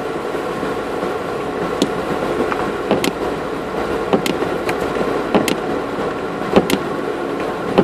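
An off-road 4x4's engine running steadily while driving slowly on a muddy track, heard from inside the cabin. Scattered sharp clicks and knocks come at irregular moments throughout.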